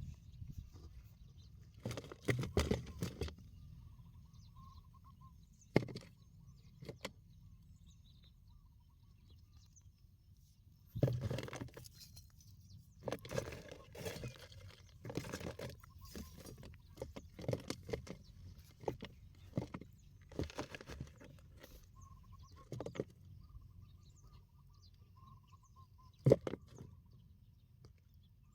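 Irregular rustling and knocking noises, now and then a sharp knock, with a faint thin trilling call twice in the background.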